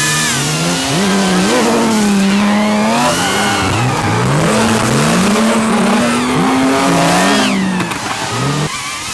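A drift car's engine revving hard, its pitch climbing and dropping again and again as the throttle is worked. A hiss of sliding tyres runs underneath.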